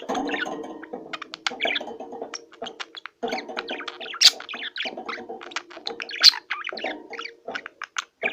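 A flock of small cage birds chirping and calling over one another in quick, overlapping notes, with lower sustained calls underneath that come and go.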